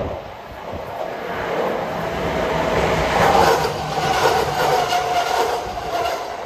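Kintetsu 1259-series electric train pulling into the station and running past close by. The rumble of its wheels grows louder as the cars come alongside, peaks about three to four seconds in, then eases. A steady whine runs through it.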